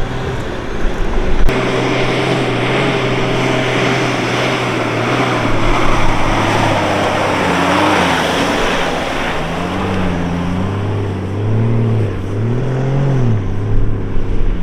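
Toyota Troop Carrier's engine running under load, with tyre and wind noise. Near the end its pitch swells up and down several times as the revs rise and fall.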